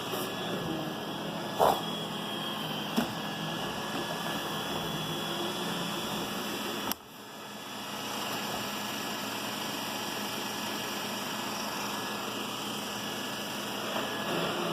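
iRobot Roomba 960 robot vacuum running over carpet, a steady whirring hiss of its suction motor and brushes. There are two short knocks in the first few seconds. About halfway there is a click, after which the sound drops away and builds back up over a second or so.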